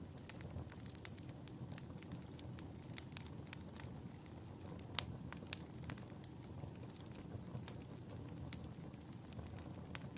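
Wood fire burning in a fireplace: a steady low rumble of flames with frequent crackles and a few sharper pops about halfway through.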